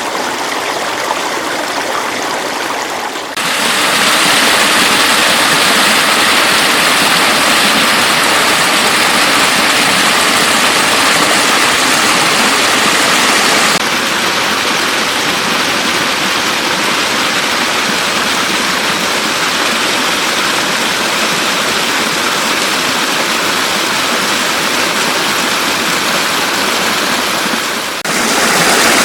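Floodwater rushing steadily. It changes abruptly in loudness and tone three times: a few seconds in, about halfway and near the end.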